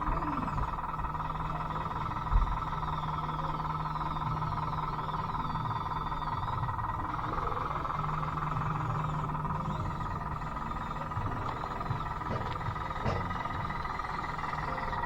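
Converted Bruder D5 RC bulldozer's electric drive motors and gearing whining steadily, with a single thump about two seconds in.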